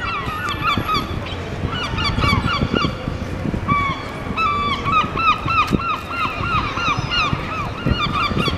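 A flock of gulls calling over and over, short squawking calls overlapping one another, with a brief lull about a second in, over a low background rumble.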